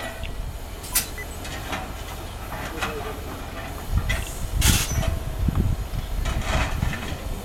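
A1 Pacific steam locomotive on a turntable: a steady low rumble with scattered clanks and knocks, and a short burst of hissing steam a little past halfway.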